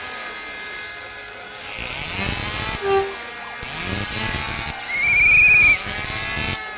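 Motocross bikes revving past over fans' crowd noise, with a short low horn toot about three seconds in and a loud high-pitched horn blast of under a second near the end.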